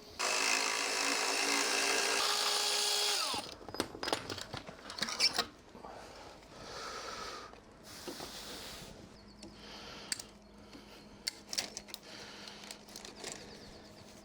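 A power tool runs at speed for about three seconds, then winds down with a falling pitch. Metallic knocks and clicks of parts being handled follow.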